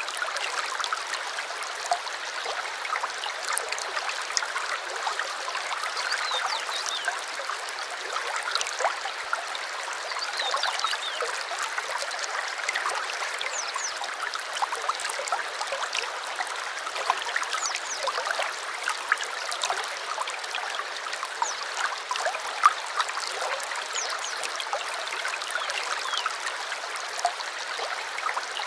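A small stream babbling and trickling steadily over stones, a continuous bright splashing with many small drips and gurgles.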